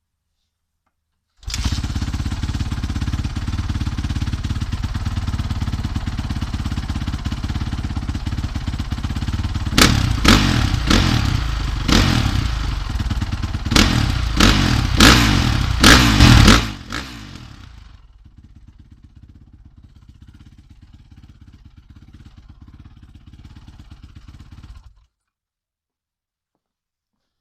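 Honda CRF450R's single-cylinder four-stroke engine running. It starts abruptly, runs steadily, then gives about ten quick, sharp throttle blips. After that it falls to a much quieter steady running that cuts off suddenly.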